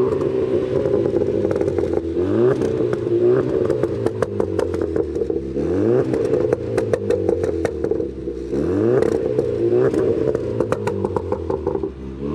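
Modified car engine revved hard several times, each rev rising sharply then dropping off into rapid exhaust pops and crackles on the overrun.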